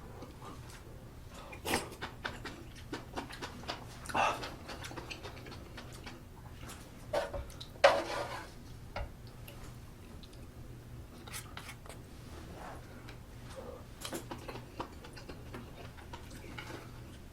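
Eating sounds of budae-jjigae: utensils clicking and scraping against the pot and bowl, with chewing between them and a few louder, noisier moments about 4 and 8 seconds in.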